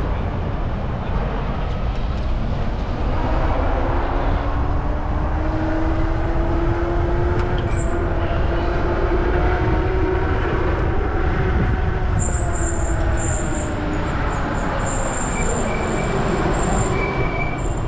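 Low wind rumble on the microphone of a moving bike. Over it is a machine whine that rises slowly in pitch and falls again, and thin high squeals come in near the end.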